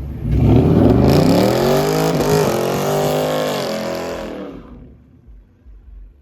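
Car engine accelerating hard, its pitch climbing with a brief dip partway through, then fading away as the car pulls off into the distance.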